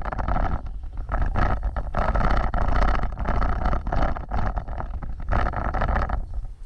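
Off-road vehicle driving over rough ground: a continuous, uneven rumble with frequent short knocks and jolts, dipping briefly about a second in and again near the end.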